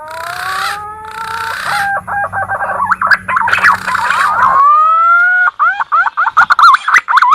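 Green pigeon (punai) lure call: long whistled notes that glide upward, then break into rapid, wavering warbling trills in the second half. A few short bursts of hiss come through in the first few seconds.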